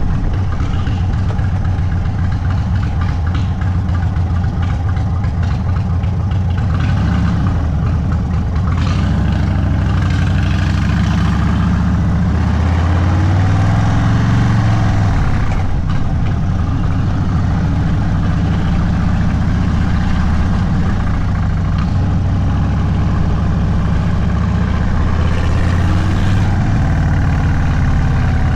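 Indian Sport Chief's Thunderstroke 116 V-twin running through a Sawicki Speed aftermarket exhaust at low, easy cruising speed. The exhaust note rises and falls briefly about halfway through, then settles back to a steady lope.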